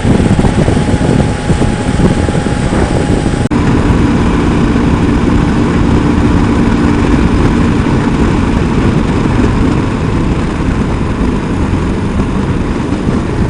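Loud, steady wind rush and motorcycle engine noise from riding at highway speed, with a momentary break about three and a half seconds in.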